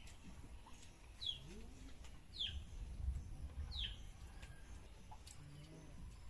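A small bird calling: three short chirps, each falling in pitch, a little over a second apart. A faint low rumble swells briefly in the middle.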